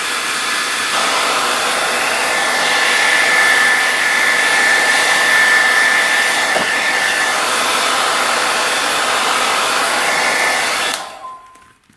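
Craft heat gun blowing steadily with a high motor whine, drying the ink on the card, then switched off and winding down about eleven seconds in.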